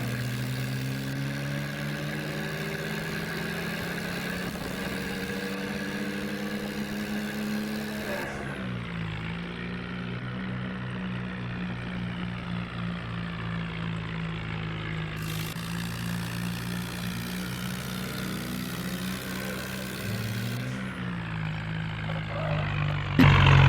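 Tractor diesel engine running steadily under load. Its pitch drops about eight seconds in and rises again near the end, where it suddenly gets louder.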